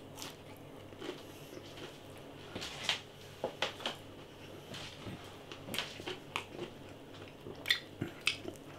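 A person chewing and biting into crispy battered chicken chunks, with irregular short crunches.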